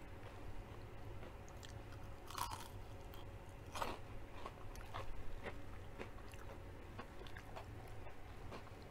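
Close-up eating sounds of fried breaded zucchini being chewed: soft crunches and wet mouth clicks, with two louder crunches about two and a half and four seconds in.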